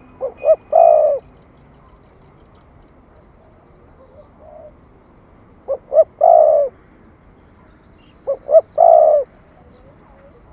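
Spotted dove cooing: three loud phrases, one at the start, one about six seconds in and one near nine seconds, each two short clipped notes followed by a longer drawn-out coo. A fainter single coo comes about four and a half seconds in.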